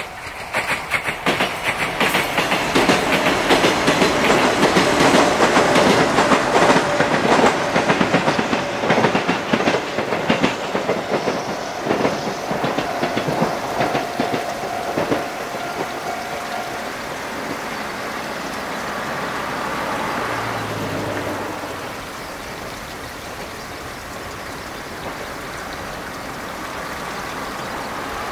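Electric train on the Yoro Railway running past, its wheels clacking over the rail joints. The sound is loudest in the first third, then settles into a quieter, steadier running sound as it draws away.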